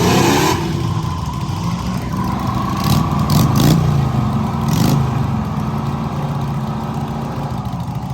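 Car engine revving sharply near the start, then running on at a steady note as cars pull away. A few short bursts of noise come about three to five seconds in.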